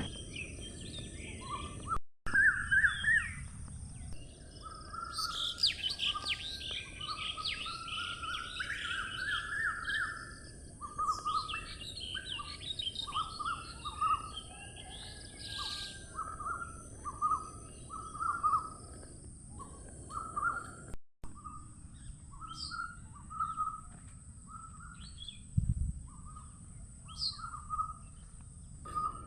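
Birds chirping and calling: a steady run of short, repeated chirps, with a denser burst of higher calls about five to sixteen seconds in. The sound drops out briefly twice.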